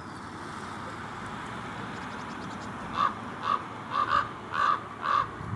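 A bird calling: a run of about six short calls about half a second apart, starting about halfway through, over a steady background hiss.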